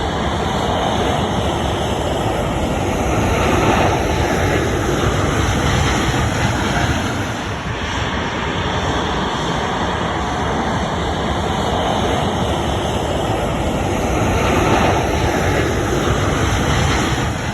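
Jet airliner's engines running loud, a broad rushing noise that swells twice as the aircraft passes.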